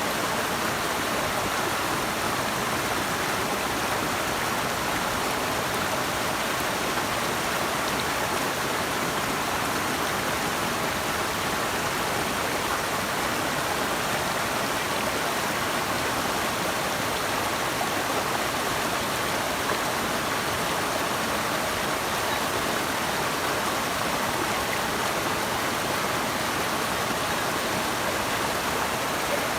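Flowing water rushing steadily, an even noise that does not let up.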